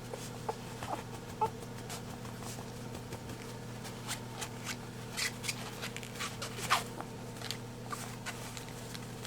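Scattered light scratches, clicks and rustles, busiest in the second half, as a three-week-old Pembroke Welsh Corgi puppy scrabbles and shuffles about, over a steady low hum.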